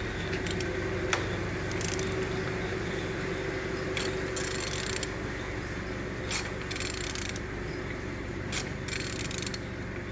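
A removed car engine being turned over by hand with a ratchet wrench: scattered ratchet clicks and the rub of the turning internals, with several short hissy bursts over a steady low hum. The engine turns freely and has full compression.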